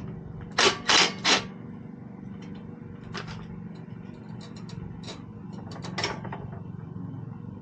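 Metal parts and hand tools clicking and scraping as a carburetor is worked off a small engine, with three quick clatters about a second in and scattered single clicks after. A steady low hum runs underneath.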